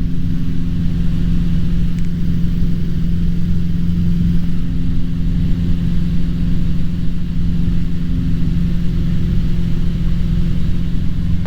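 Cessna 150's engine and propeller droning steadily in cruise, a constant hum with a low rumble beneath it, as heard in the cabin.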